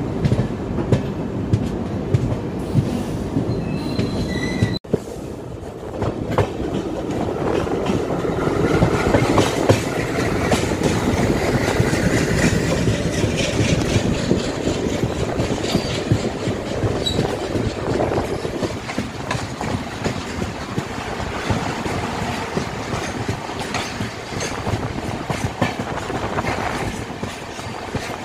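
Train wheels on rails: the running rumble and rhythmic clickety-clack of a moving passenger coach. After a brief break about five seconds in, a long container freight train runs close alongside, its wagon wheels clattering over the rail joints with some wheel squeal.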